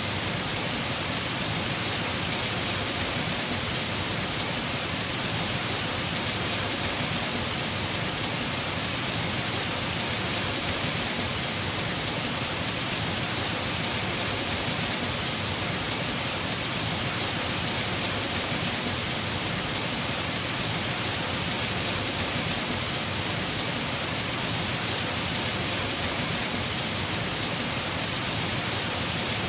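Heavy rain falling steadily on a house roof, an even hiss with no breaks or distinct claps.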